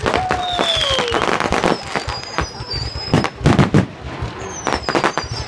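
Fireworks going off: a rapid run of bangs and crackles, with several whistling fireworks sliding down in pitch.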